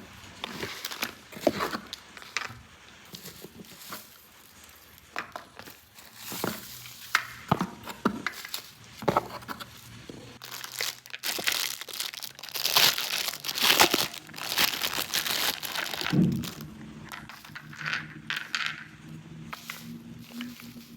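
Plastic packaging crinkling, rustling and tearing, with scattered clicks and taps, as a toy set is unpacked by hand; it is loudest in the middle. Near the end a low steady hum starts under the handling sounds.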